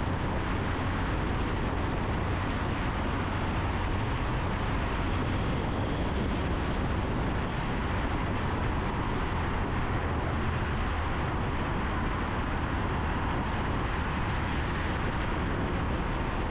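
Steady, unbroken rush of a motorcycle riding at speed through a road tunnel, engine and road noise blended into one even roar with no changes.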